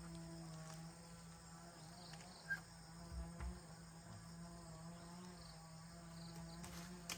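Faint, steady insect drone with one sharp click about two and a half seconds in and a couple of low thumps just after.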